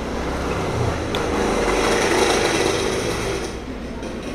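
Close-up chewing of spicy boneless chicken feet and rice, a noisy sound that swells about a second in and eases off near the end, with one sharp click about a second in.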